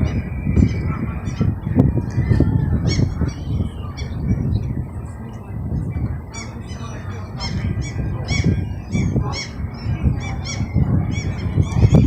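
Birds giving many short honking calls, one after another, over a low, uneven rumble.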